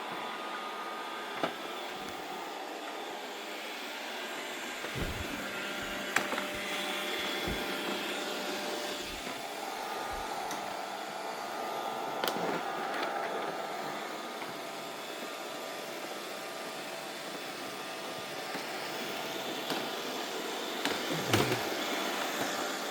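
Robot vacuum cleaner running steadily, its motor and brushes giving a continuous hum and whir, with a few short knocks scattered through.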